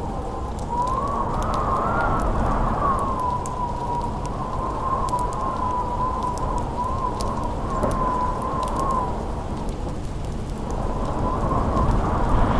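Howling wind with a wavering whistle that rises and falls in pitch, dying away about three-quarters of the way through and coming back near the end, over a dense rumble of rain and storm, with sharp crackles from a wood fire.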